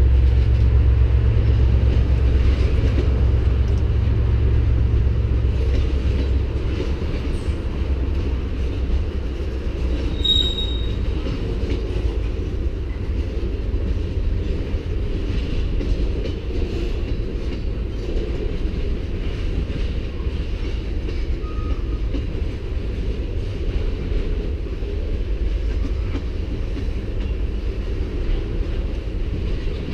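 CN manifest freight train's tank cars rolling past: a steady low rumble of steel wheels on rail, heaviest in the first few seconds and then easing. A brief high squeal comes about ten seconds in.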